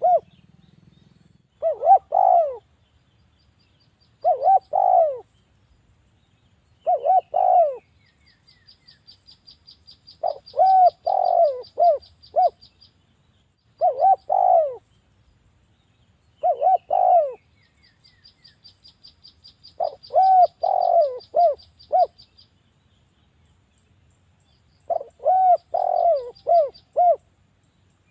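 Spotted dove (derkuku) cooing over and over, in phrases of two to four notes every two to three seconds, as a lure call to set caged doves singing. Twice a fast, thin, high trill from another bird runs for a few seconds between the coos.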